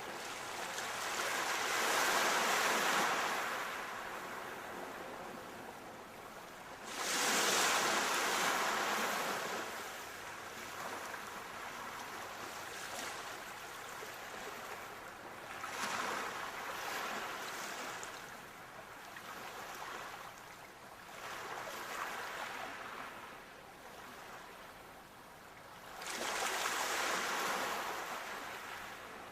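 Sea waves breaking and washing in, a steady hiss of surf that swells five times, the strongest surges about two seconds in and about seven seconds in, with a last one near the end.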